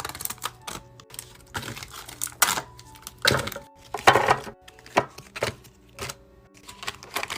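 Irregular clacks and knocks of containers and packaged items being handled and set down while a fridge is restocked, a few of them louder, over faint background music.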